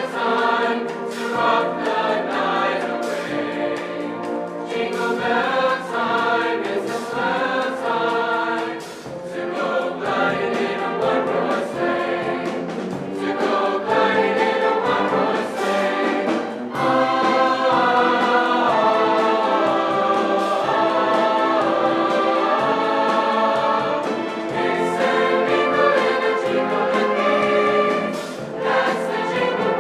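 A choir singing together in several parts, with notes changing continuously.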